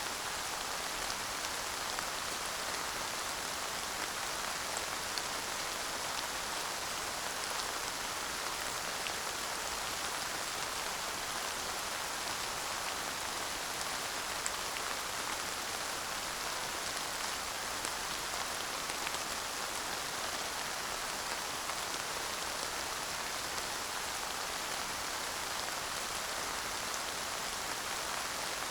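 Steady light rain falling, an even hiss with scattered drop ticks and no thunder.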